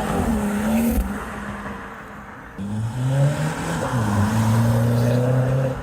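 Modified car engines accelerating away. One car fades out in the first second. A second comes in about two and a half seconds in, rising in pitch, dropping briefly at a gear change, then pulling steadily higher.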